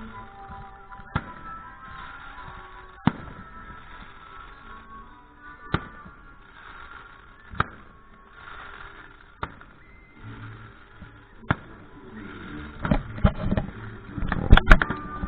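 Fireworks going off: single sharp bangs about every two seconds, then a quick cluster of bangs and crackles near the end, the loudest burst coming just before the end.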